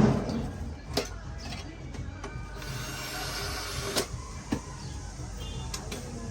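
Hand work on a metal gas stove: several sharp knocks, and a stretch of hissy scraping noise from about two and a half to four seconds in.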